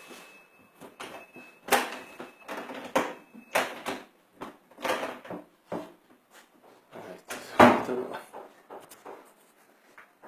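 A string of knocks and clatters, like melamine cabinet doors and drawers being opened and shut, the loudest bang about three quarters of the way through. A faint steady high tone runs through the first three seconds.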